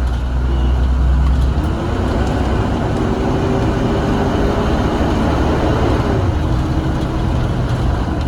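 Blue Bird Vision school bus heard from inside the cabin, driving with a steady engine rumble and road noise. A faint whine rises slightly from about two seconds in, then drops to a lower pitch around six seconds in.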